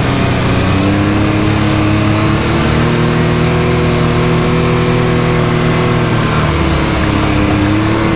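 Can-Am Maverick X3's turbocharged three-cylinder engine running under load on a trail, revs climbing about a second in, holding steady, easing off past the middle and picking up again near the end.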